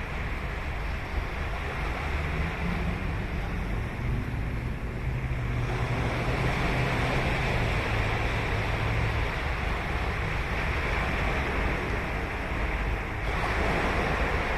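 Ocean waves breaking and washing up on the beach in a continuous rush of surf, swelling as a wave breaks about six seconds in and again near the end. A faint low hum sits underneath during the first half.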